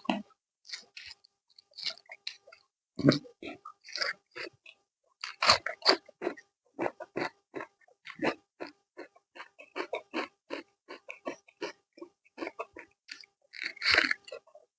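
Close-up chewing and mouth-smacking of a person eating chicken, with irregular wet bites and a few louder crunches.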